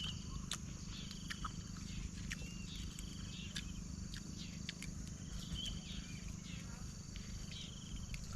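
Outdoor chorus of wild birds and insects: short, finely pulsed high trills repeat about once a second and overlap, over a steady high insect drone.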